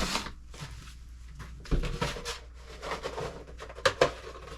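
Pantry items being handled and moved on the shelves: rustling packaging and light clatter, with a thump a little under two seconds in and two sharp knocks near the end.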